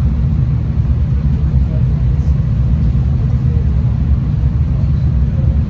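V/Line passenger train running along the track, heard from inside the carriage: a loud, steady low rumble.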